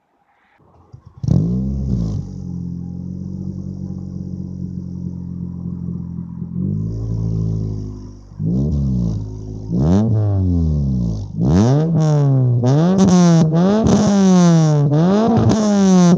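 1992 Nissan Sentra's four-cylinder engine heard through its homemade exhaust with a 4-inch tip. It starts up about a second in and idles steadily. It is then blipped a few times and, over the last few seconds, revved over and over, the pitch rising and falling about once a second.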